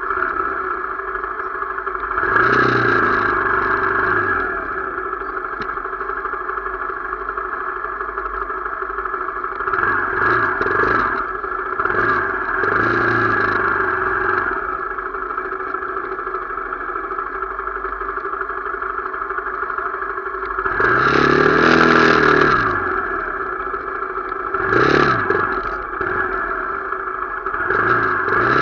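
Motorcycle engine running on the move, with its pitch rising and falling several times as it revs up and eases off, loudest about two-thirds of the way through.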